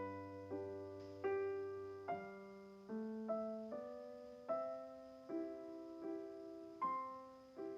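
Soft background piano music: single notes and chords struck about once or twice a second, each ringing and fading.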